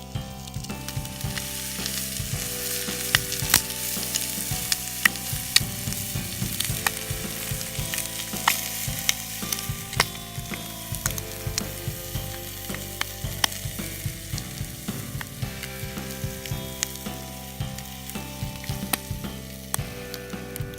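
Food sizzling in a cast-iron skillet over a wood fire: a steady frying hiss scattered with sharp pops and crackles.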